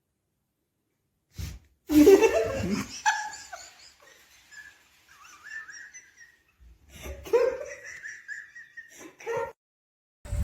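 Laughter in two main bouts, with fainter wavering high sounds between them.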